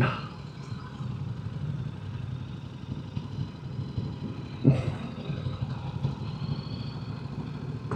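Motorcycle engine running steadily at low speed while turning, with a low even note. A single short, louder sound cuts in a little over halfway through.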